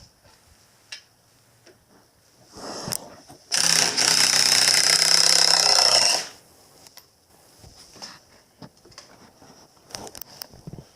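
A small motor-driven tool runs loud and steady for about two and a half seconds, starting about three and a half seconds in and stopping abruptly. Scattered light clicks and knocks of handling come before and after it.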